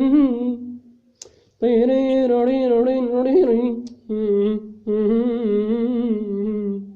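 Unaccompanied solo voice singing long, wavering held notes without words, a melismatic vocalise between verses of a sad Arabic song. It comes in a few long phrases with short breaks for breath.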